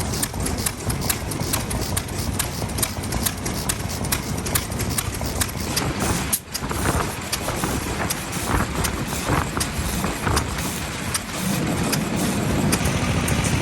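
Old single-cylinder stationary farm engines running, with repeated knocking exhaust beats over a low rumble. The rumble gets heavier about eleven seconds in.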